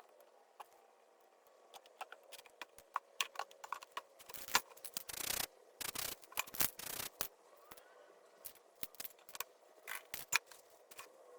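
Hands working with art materials: an irregular run of sharp clicks, scrapes and short rustling bursts, busiest through the middle.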